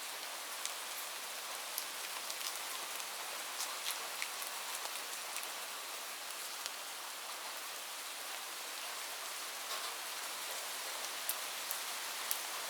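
Light rain falling steadily: an even hiss with scattered sharp drop ticks.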